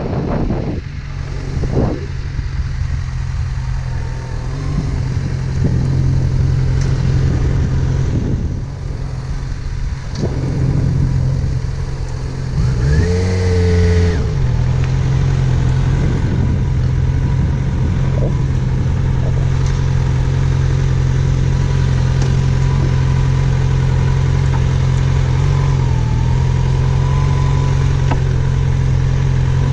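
Yamaha FZ6R's inline-four motorcycle engine idling steadily, with one short throttle blip about thirteen seconds in.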